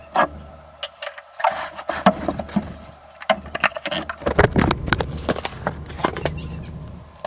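Irregular clicks and knocks, several in quick succession in the second half, over a low rumble that cuts in and out.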